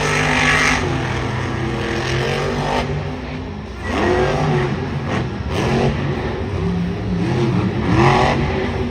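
Monster truck's supercharged V8 engine revving, its pitch climbing and falling again several times, with a short lull about three seconds in.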